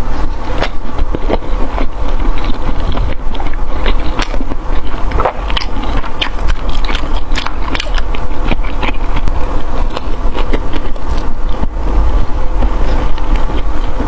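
Close-up eating sounds, with many sharp crunching clicks of food being bitten and chewed, over a steady low rumble.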